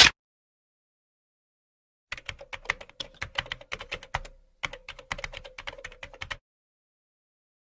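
Typing on a computer keyboard: a quick, irregular run of key clicks starting about two seconds in and lasting about four seconds, with a short pause midway.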